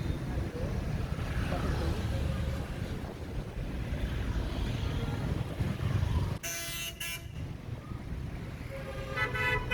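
Steady rumble of road traffic, with a vehicle horn honking in two quick blasts about six and a half seconds in.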